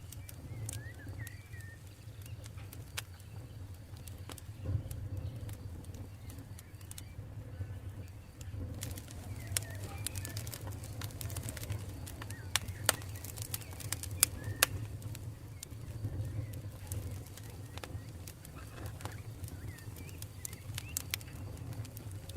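Campfire burning with a steady low rumble and sharp wood crackles and pops scattered throughout, the loudest snaps a few seconds past the middle. Faint bird calls come and go in the background.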